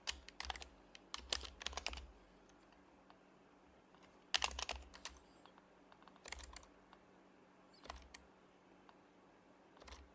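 Typing on an HHKB Professional Hybrid Type-S keyboard, its silenced Topre capacitive switches giving soft, muted keystrokes. The keys come in short quick runs separated by pauses of a second or two, the longest run at the start.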